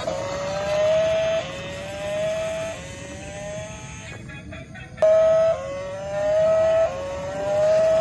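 Electronic toy-vehicle sound effect: a rising tone that repeats about every second and a half, with a short break a little past the middle.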